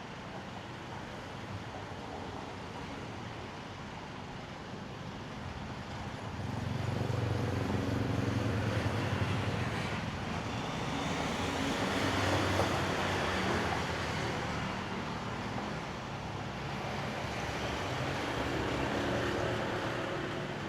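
Road traffic passing: vehicle engines hum as they approach and go by, starting about six seconds in and swelling again twice, over a steady background wash.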